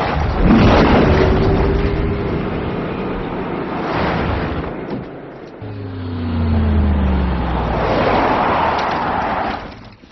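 Car-chase soundtrack mix of vehicles speeding on a highway: engines running over dense road and wind noise that swells and fades, with an engine note falling in pitch a little past halfway.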